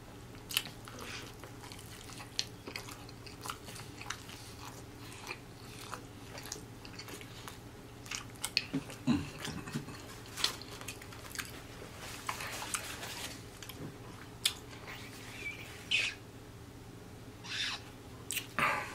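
Close-miked chewing of crispy fried chicken: scattered wet mouth clicks, smacks and soft crunches, with a few louder noises near the end.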